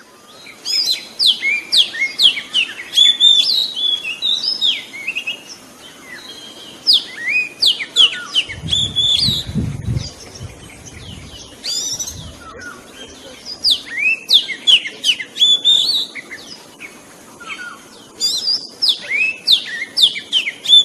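Oriental magpie-robin singing in repeated bursts of quick, high, downward-sweeping whistled notes, with short pauses between phrases. A low rumble comes in under the song about halfway through.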